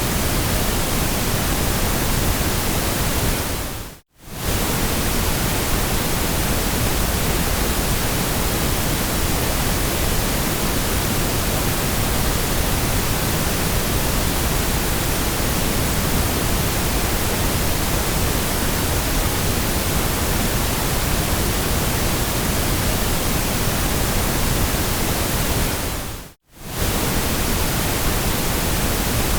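Steady generated noise, an even hiss spread across all pitches, as played for sleep and study. It fades out to near silence and straight back in twice, briefly: about four seconds in and near the end.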